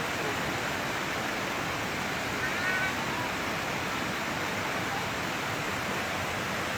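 Steady, even rush of flowing water, as from a fast stream or small waterfall.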